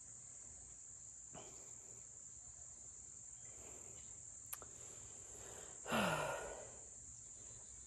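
Faint, steady high-pitched chirring of insects, with a person sighing once about six seconds in.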